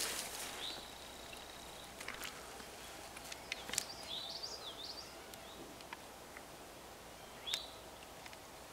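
Songbirds singing: one long steady high whistle, then a short warbling phrase of rising and falling notes, and a single short call near the end. There are a few soft clicks and rustles alongside.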